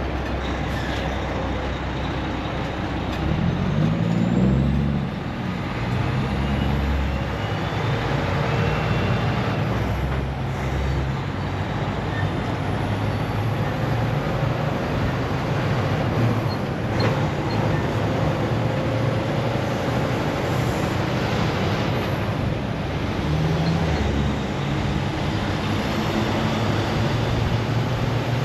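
Semi truck's diesel engine running under way with steady road and tyre noise, its pitch shifting a few times.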